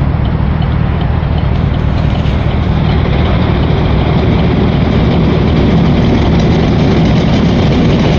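A heavy engine running steadily, its low rumble growing louder from about three seconds in.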